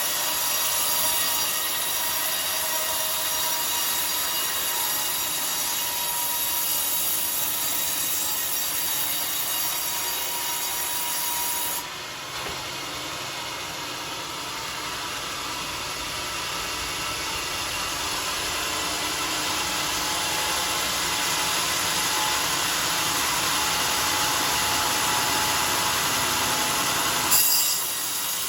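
Sawmill circular saw blade running through a coconut log in a steady, continuous cut. The sound changes about twelve seconds in, and there is a brief louder burst near the end.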